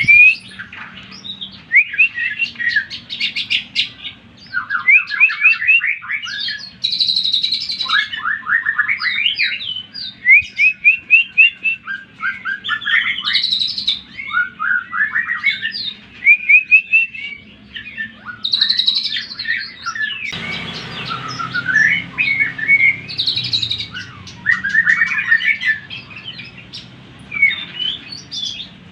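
A leafbird (cucak ijo) singing a loud, varied song of fast trills, rapid repeated notes and sweeping whistles, phrase after phrase without a break. About two-thirds of the way through, more background hiss sets in under the song.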